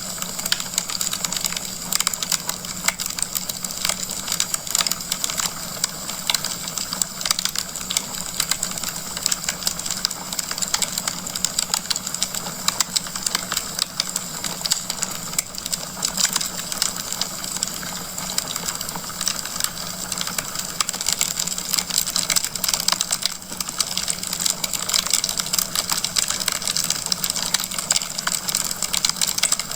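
Wood fire crackling steadily in a fireplace: a dense, unbroken stream of small snaps and pops over a steady hiss.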